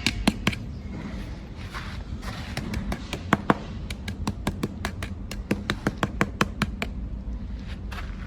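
Radio-controlled toy construction vehicle working: a steady low motor hum with irregular plastic clicks and taps.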